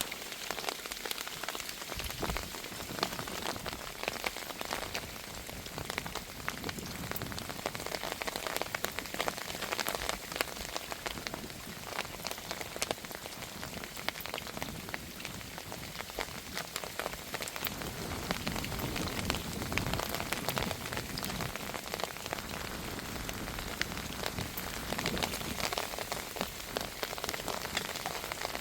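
Heavy rain falling steadily, with the patter of many individual drops hitting a surface.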